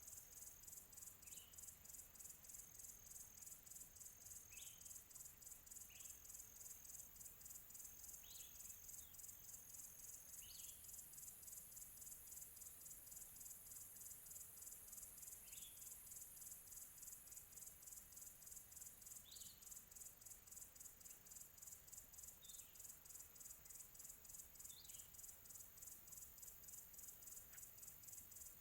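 Crickets chirping faintly in a rapid, even pulse, with a short high bird chirp every few seconds.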